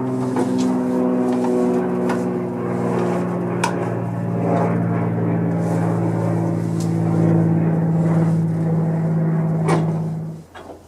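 A motor running steadily, with a few sharp clicks over it, then cutting off suddenly about ten and a half seconds in.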